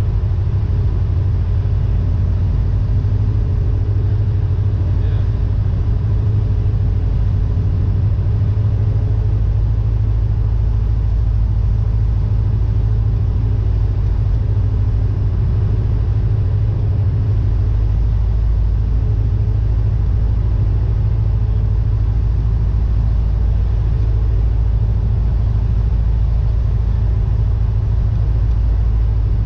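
Cessna 172N's Lycoming O-320 four-cylinder piston engine and propeller running steadily, a continuous loud drone; the deepest part of the rumble grows stronger about halfway through.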